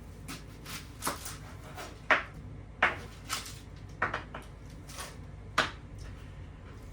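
Kitchen knife chopping onion on a cutting board: about a dozen irregular, unhurried strokes.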